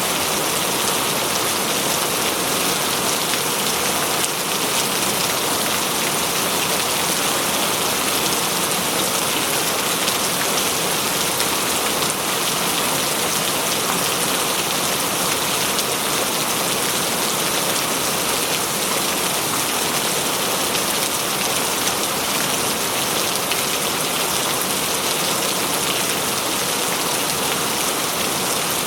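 Steady heavy rainfall, an even hiss of drops with no thunder heard.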